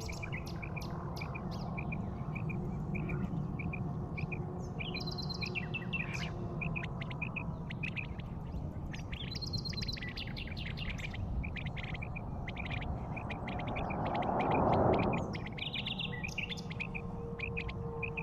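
Birds chirping: many short repeated notes and higher trills over a steady low rumble, with a whooshing sound that swells and fades about fifteen seconds in.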